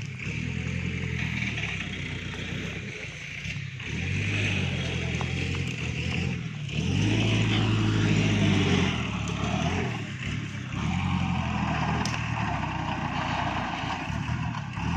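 Iseki NT554 tractor's diesel engine running, its revs shifting up and down; about halfway through it revs up and gets louder for a couple of seconds, then settles back.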